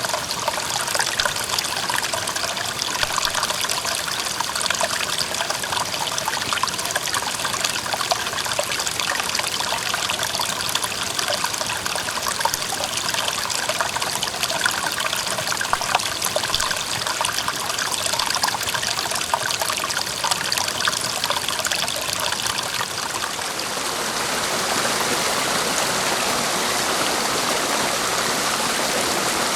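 Clear mountain stream babbling and trickling over rocks. About three-quarters of the way through, it changes to a smoother, steadier rush of water.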